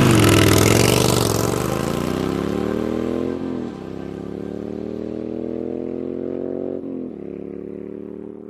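Motorcycle engine accelerating through the gears: the pitch climbs, drops at a shift about three and a half seconds in and again about seven seconds in, then climbs again as it grows fainter.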